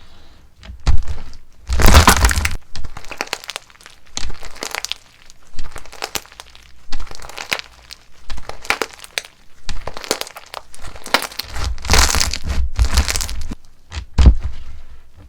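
Crunchy slime being pressed and squeezed by hand, giving a dense run of irregular cracks and crackles, loudest about two seconds in and again near the end.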